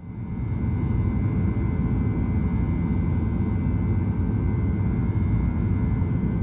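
Boeing 737-800 cabin noise just after takeoff: a steady deep rumble of its CFM56 jet engines and airflow, with a faint steady whine above it, fading in at the start.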